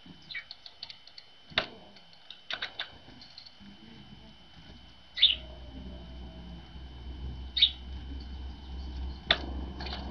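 Tits calling with short high notes and wingbeats as a great tit flies in to the feeder: a run of quick ticking notes in the first three seconds, then sharper single calls about five, seven and a half and nine seconds in. A low rumble runs underneath from about halfway.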